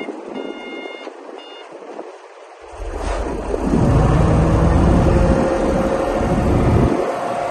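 A reversing alarm beeps on and off twice in the first second and a half. From about three seconds in, a bulldozer's heavy diesel engine comes in loud, rises under load, runs steady, and dips briefly near the end.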